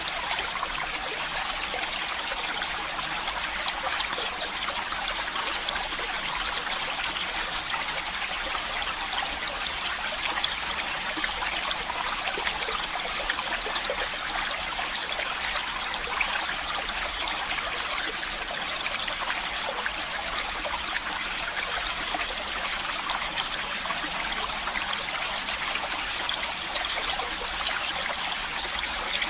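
Stream water running and trickling steadily, an even rushing hiss with fine splashy detail.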